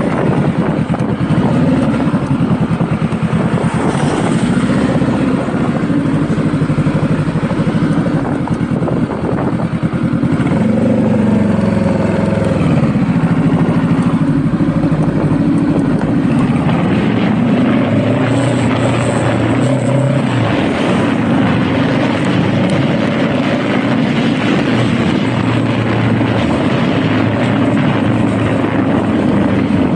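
Honda Rebel cruiser motorcycle being ridden, its engine note rising and falling with throttle and gear changes, most clearly about a third of the way in.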